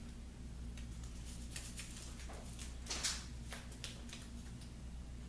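Light clicks, taps and one short scrape, about three seconds in, from wooden pieces being handled and set into place, over a steady low hum.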